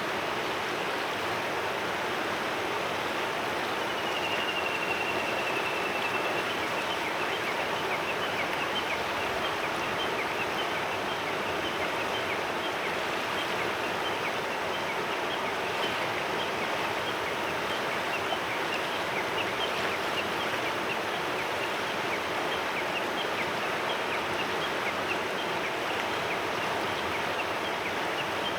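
A clear mountain river flowing steadily over stones. About four seconds in, a bird sings one long whistled note that falls slightly, lasting about two seconds. Many short, high ticks sound over the water after that.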